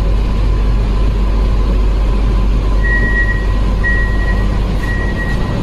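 Steady rumble of an AC EMU local train running, with a faint constant hum. About three seconds in, three long high-pitched electronic beeps of the same pitch sound one after another.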